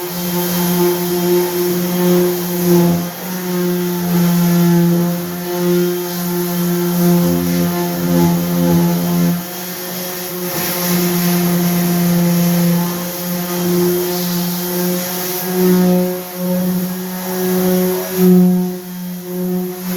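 Milwaukee M18 random orbit sander running with 80-grit paper on wood: a steady motor hum with a hiss of abrasion, rising and falling in level as it is worked over the surface.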